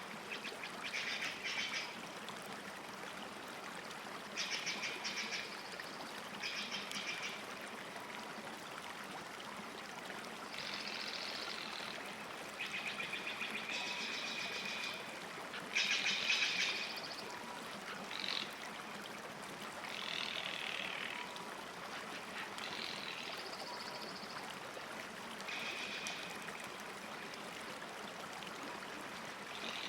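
Songbirds singing short trilled phrases, one every two to three seconds, over a steady hiss of gently moving water at the lake's edge.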